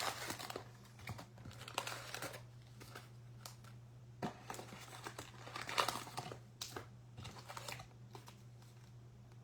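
Wrapped trading-card packs crinkling and rustling as they are taken out of the box and handled, in irregular spells with small clicks, loudest about two seconds in and again near six seconds. A steady low hum runs underneath.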